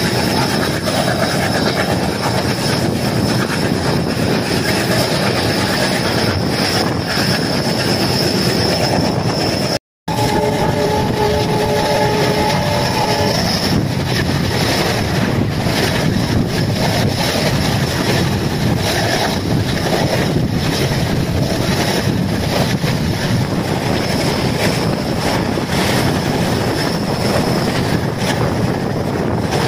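Passenger train hauled by an ALCO WDM3D diesel locomotive running at speed, heard from an open coach door: a steady, loud rumble of wheels on rails with rushing wind. About ten seconds in the sound drops out for an instant, then the locomotive's horn sounds once, a chord of several notes lasting about three seconds.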